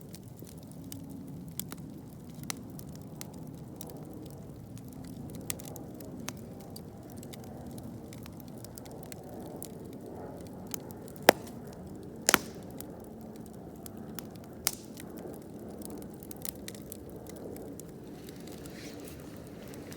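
Wood campfire burning: a steady low rustle of flames with scattered sharp pops and crackles, the loudest two about eleven and twelve seconds in.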